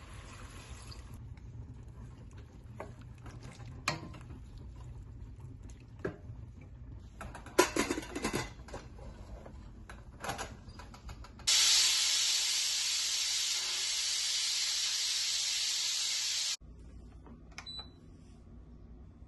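Kitchen work sounds: light knocks and clinks, a louder clatter about eight seconds in, then a steady rushing hiss for about five seconds that starts and stops abruptly.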